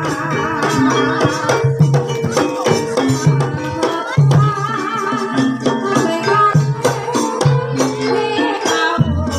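Live ebeg accompaniment music: pitched gamelan-style percussion playing a repeating melody over hand-drum strokes, with a deep low note coming in near the end.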